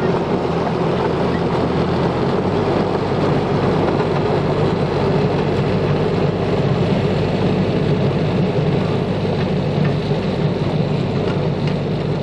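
Diesel railway engine running steadily under load, with its low note stepping up slightly about two seconds in.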